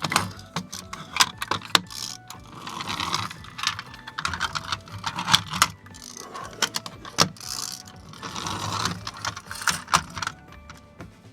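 Small diecast and plastic parts of a model truck clicking, rattling and scraping as it is handled and its moving parts are worked, in irregular sharp clicks and short rattling bursts.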